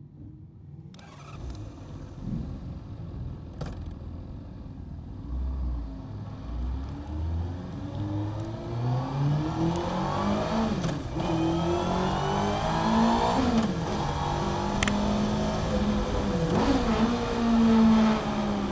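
Honda CBR600F (PC41) 600 cc inline-four with a Mivv aftermarket exhaust, heard from onboard, pulling away and accelerating hard. The revs climb and drop back at each upshift, about three times, and the engine grows louder.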